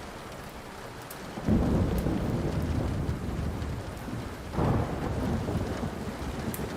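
Thunder rumbling over steady rain: one low rumble breaks in suddenly about one and a half seconds in and a second swells up about two seconds before the end. A few faint crackles from a wood fire sound between them.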